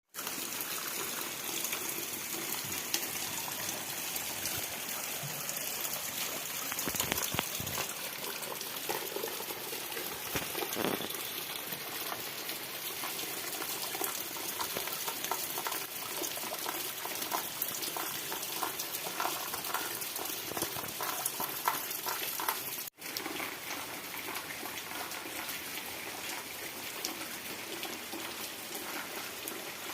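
Steady heavy rain falling, a constant hiss of water dotted with many separate drop hits. The sound drops out for a moment about two-thirds of the way through.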